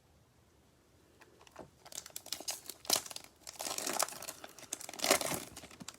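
Foil trading card pack wrapper being torn open and crinkled in the hands, a run of crackly bursts starting about two seconds in.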